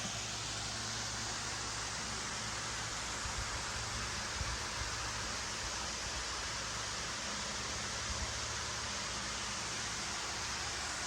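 Steady rushing outdoor noise with no distinct events, and a faint low hum underneath.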